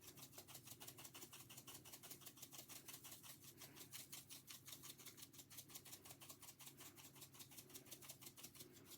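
Faint, quick, even rubbing strokes, several a second and unbroken: seasoning being spread over a raw salmon fillet.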